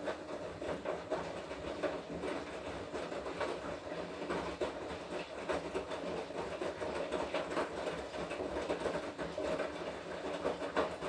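Washing machine in its wash cycle, the drum turning with a steady run of churning and rattling from the clothes and water tumbling inside.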